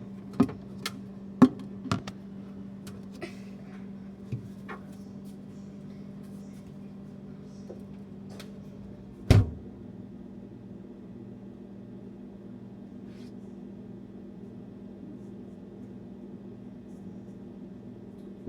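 Refrigerator running with a steady hum, heard from inside the fridge. A few sharp clicks and knocks come in the first two seconds, and one loud thump about nine seconds in.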